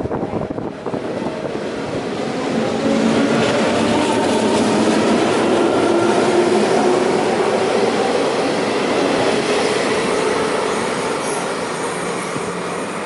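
A red-and-white regional electric multiple-unit train pulling out of the station, its wheels running on the rails as it passes close by. A faint whine rises slowly in pitch as it gathers speed, and the sound fades gradually as the train draws away.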